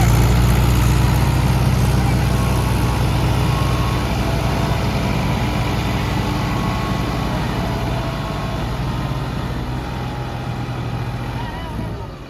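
Tractor diesel engine running with a steady low drone, growing gradually fainter and dropping away sharply near the end.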